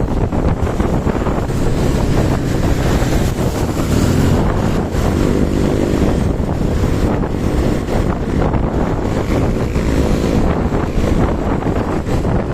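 Loud, steady wind buffeting the microphone, with a faint hum underneath near the middle.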